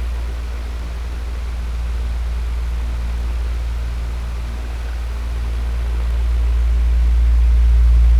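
Electric fan running steadily: a deep hum with an even airy rush of moving air, swelling a little louder in the second half.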